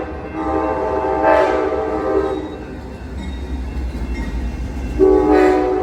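Diesel locomotive air horn on an Amtrak triple-header passenger train, sounding a chord. One long blast lasts about two and a half seconds, and a second blast starts about five seconds in. Beneath the horn runs a steady low rumble of the locomotives' diesel engines.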